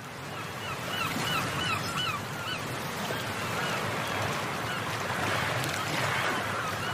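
A bird calling repeatedly in short rising-and-falling notes, about two a second, growing fainter after the first couple of seconds, over a steady hiss.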